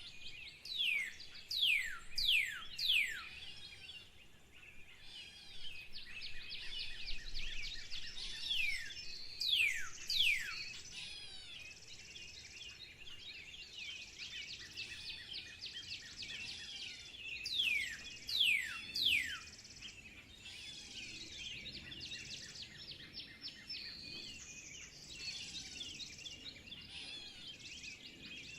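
Birds singing: a steady twittering of many small chirps, broken by loud whistled notes that sweep steeply down in pitch, coming in runs of two or three a few times.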